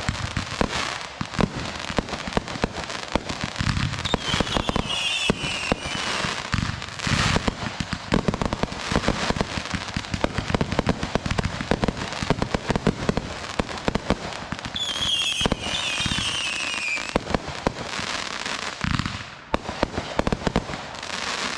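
Consumer fireworks going off in a dense, continuous string of crackles and pops. Twice, a wavering whistle falls in pitch over a second or two.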